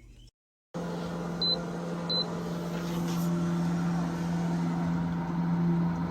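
Two short high beeps from the Dreo humidifier's touch control panel as its buttons are pressed, over a steady low hum.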